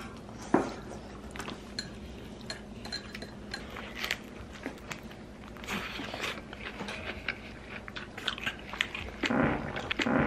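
Close-up eating sounds of crispy battered fried pork (tangsuyuk): crunching bites and chewing, with a muffled mumble through a full mouth near the end.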